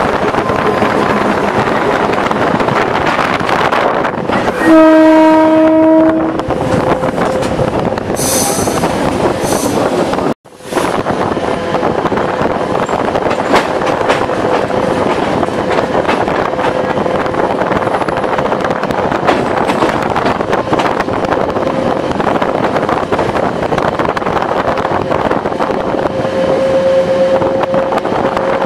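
ICF-built Class S11 diesel multiple unit running, heard from the driving cab as a steady rumble and rattle with a faint steady whine. About five seconds in, the train sounds one horn blast lasting about a second and a half, the loudest sound here. The sound cuts out for a moment about ten seconds in.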